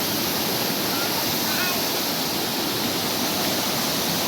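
Waterfall pouring and splashing: a steady, even rush of falling water.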